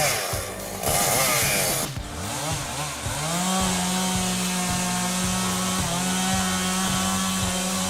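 Husqvarna 395 XP two-stroke chainsaw revving up and down, then held at a steady high pitch from about three seconds in as it cuts into a big pine trunk.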